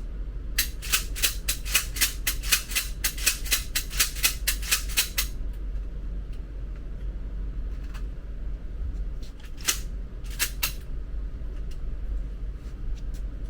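A rapid run of sharp clicks, about three a second for some five seconds, then two pairs of clicks later on, over a low steady hum.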